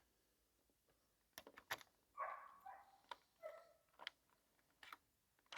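Faint sharp clicks, a pair about a second and a half in and more near the end, from a Keystone gate latch being worked to unlock it from the other side. A dog barks faintly twice in the middle.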